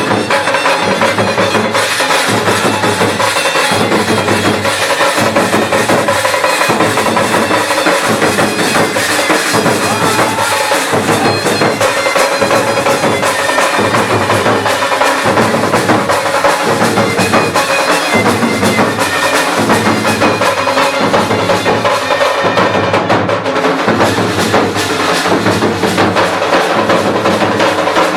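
Traditional Jharkhandi drum band playing: dhank, nagada and tasa drums beating a steady repeating rhythm under a sustained, reedy shehnai melody, with jhanjh cymbals.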